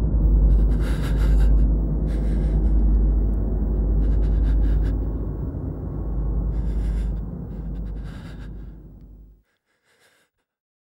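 Sound-design soundtrack: a loud, low rumbling drone with heavy, gasping breaths every second or two over it. The drone cuts off suddenly about nine seconds in, leaving one last faint breath.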